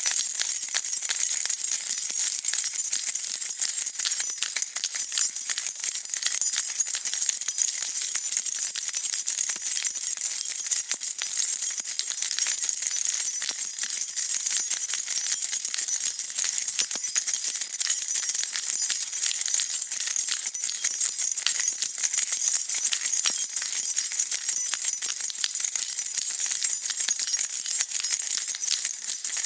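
A bunch of metal keys being shaken continuously: a dense, unbroken jingling of many small clinks.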